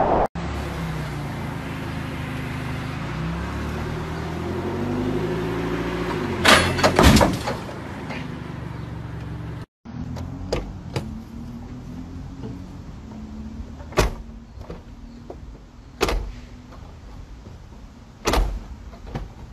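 A steady droning with shifting pitch, broken by a loud crash about six and a half seconds in. After a cut, a pickup truck's door and handle clunk and knock several times, a few seconds apart.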